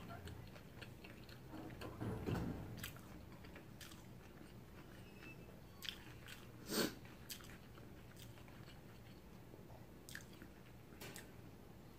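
A person chewing a bite of fresh spring roll (rice paper wrapped around lettuce and shrimp), with faint wet mouth clicks; a louder mouth sound comes about seven seconds in.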